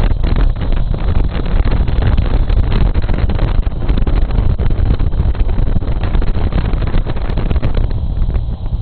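Wind buffeting the microphone of a camera taped to a moving bike: a loud, steady rumble with rapid knocks and rattles as the wind shakes the camera in its mount.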